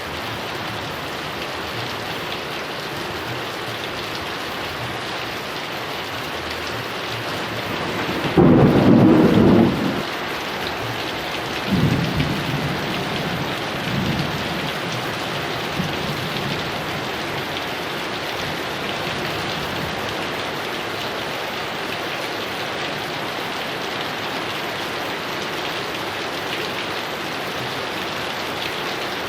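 Heavy rain falling steadily, with a loud thunderclap about eight seconds in that lasts a second or so, followed by a few fainter rolls of thunder over the next several seconds.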